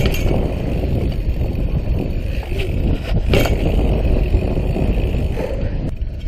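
Wind buffeting a chest-mounted camera microphone while a dirt jump bicycle rolls along, with tyre rumble and a few sharp knocks from the bike, the loudest about three and a half seconds in.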